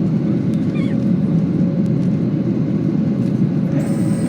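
Boeing 737-800 cabin noise during the climb after takeoff: the steady, loud rush of the CFM56 engines and airflow, with a steady hum running through it.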